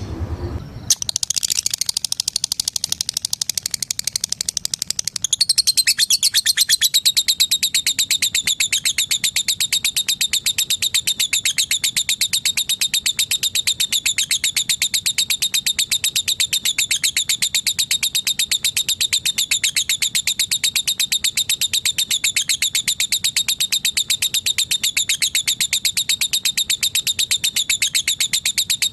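Female lovebird giving a long unbroken 'ngekek' chattering trill: very fast repeated high-pitched notes in an even rapid rhythm, starting about a second in and growing louder about five seconds in.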